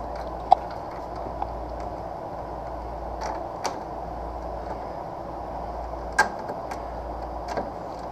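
Hand work on parts: a handful of short, sharp clicks and knocks, the loudest about half a second in and again about six seconds in, over a steady low hum.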